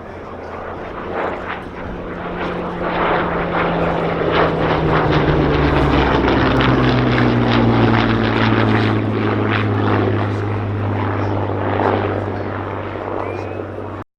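Rolls-Royce Merlin-engined WW2 piston fighter flying past. The engine grows louder, then its note drops in pitch as the aircraft passes about halfway through, and it fades away.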